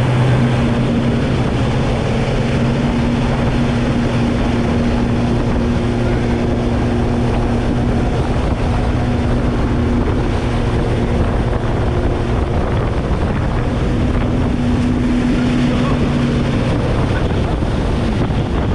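Motorboat engine running steadily at speed with a constant drone, and wind buffeting the microphone.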